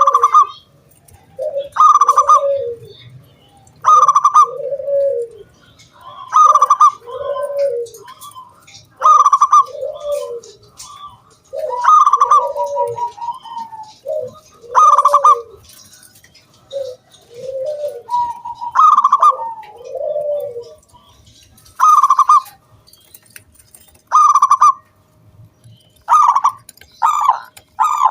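Zebra dove (perkutut) cooing, its song phrase repeated about every two seconds: a sharp higher note with lower rolling coos. Near the end it runs into a quicker string of notes.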